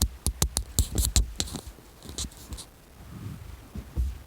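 Irregular series of sharp clicks and knocks, packed close together in the first second and a half, with a few more a little later and one near the end.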